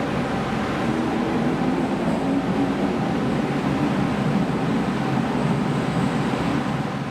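Toei subway train running through an underground station platform: a steady loud rumble of wheels and running gear, with a faint steady whine from the electrical equipment.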